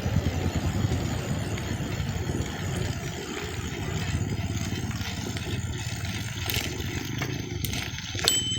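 An engine running steadily with a low, rapid pulsing, and a short sharp click near the end.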